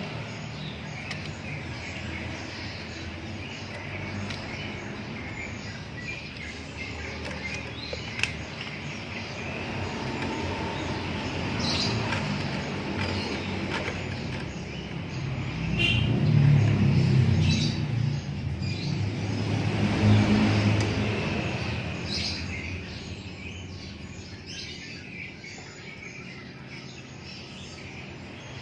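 Birds chirping over steady background noise. A low rumble swells up twice, about halfway through and again a few seconds later, like a vehicle going past.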